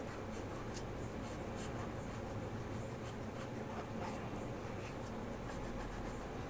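Faint scratching of a colouring tool rubbing back and forth on paper as a drawing is coloured in, over a low steady hum.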